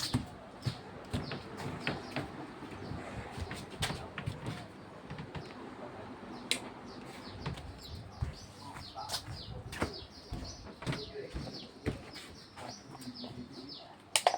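Birds chirping: many short, quickly falling high notes in rapid runs, thickest in the second half, with a few sharp clicks or knocks in between.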